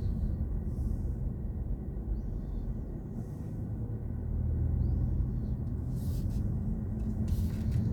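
Road and tyre rumble inside the cabin of a moving BMW i4 M50, an electric car with no engine note, so the sound is a steady low drone from the road that swells a little about halfway through.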